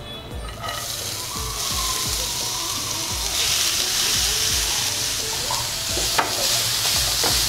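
Grated carrot sizzling as it is tipped into hot ghee in a nonstick frying pan and stirred with a silicone spatula. The sizzle starts just under a second in and grows louder partway through, with two light knocks near the end.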